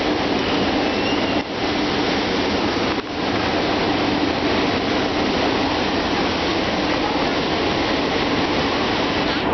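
SEPTA train running: a loud, steady rail rumble and rattle with a steady hum underneath.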